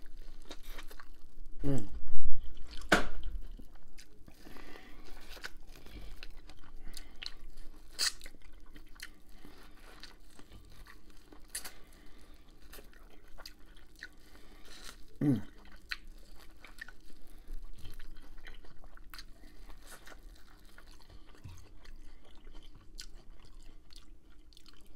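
Close-miked eating of corn on the cob: biting and chewing, with the kernels crunching and many small wet mouth clicks. The loudest bites come about two seconds in.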